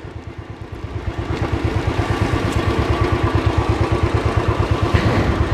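Royal Enfield motorcycle engine running with an even, rapid beat, getting louder over the first couple of seconds and then holding steady.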